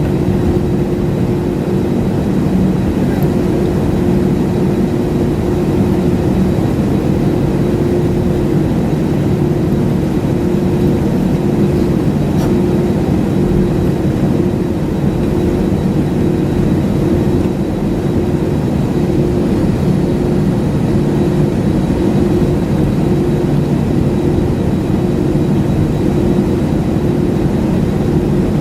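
Steady drone inside an airliner cabin: engine and air noise with a constant low hum, unchanging.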